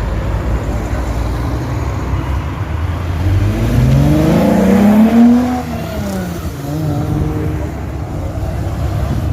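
Car engine accelerating hard over a low idle-like rumble: its pitch climbs for about two seconds to a loud peak about five seconds in, then falls away.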